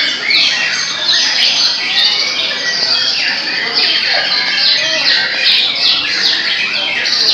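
Several caged murai songbirds singing at once, a dense, continuous tangle of loud, rapid, falling whistled phrases with no pauses.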